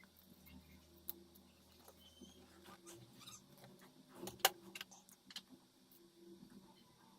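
Faint scattered clicks and taps of small tools and phone parts being handled, with one sharp click about four and a half seconds in.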